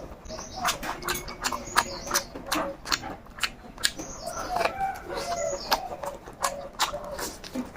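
Close-up chewing and biting of fried chicken, with many sharp wet mouth clicks. Chickens cluck in the background partway through.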